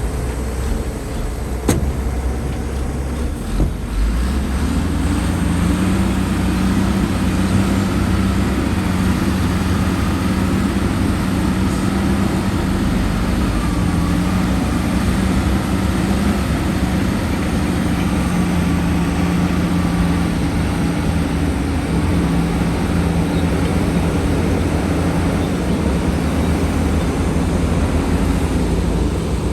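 Heavy diesel engine of earthmoving equipment running steadily. Its note firms up and grows slightly louder about five seconds in, and there is a single sharp click near the start.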